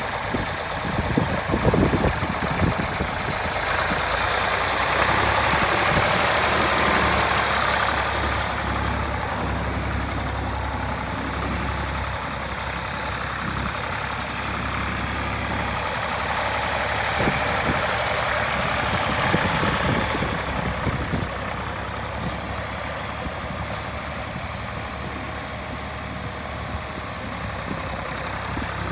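Ford 3000 tractor's three-cylinder engine running steadily, with a few knocks about two seconds in. It grows louder between about four and eight seconds in and eases a little after about twenty seconds.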